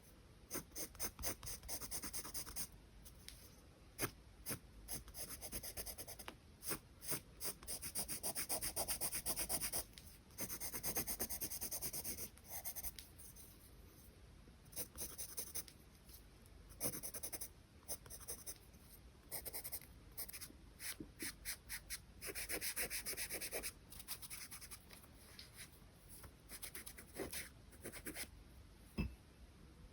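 Charcoal pencil scratching on drawing paper in runs of quick short strokes, with a few longer stretches of continuous rubbing strokes. A single sharp tap near the end.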